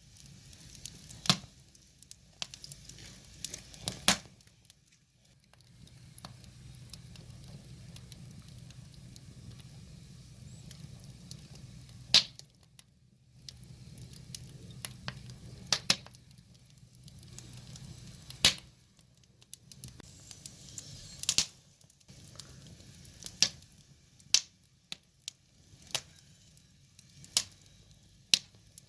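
Wood fire crackling, with sharp irregular pops and snaps over a soft steady hiss of burning logs.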